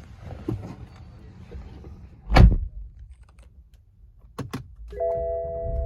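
A car door shutting with one heavy thump, then two quick clicks, and near the end a steady tone of several pitches sets in.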